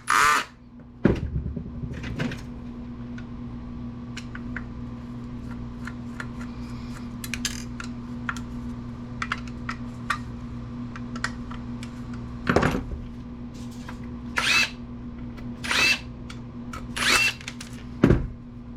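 Optical drive being taken apart by hand to strip its steel casing: scattered clicks, taps and clinks of metal and plastic parts, with a few louder knocks in the second half, over a steady low hum.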